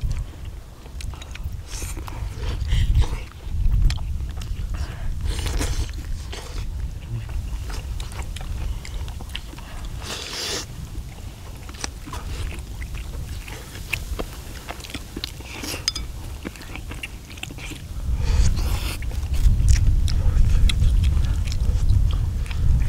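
Several people chewing and biting into saucy braised chicken and beef large intestine, with wet mouth sounds and small clicks. A low rumble runs underneath and gets louder about three-quarters of the way through.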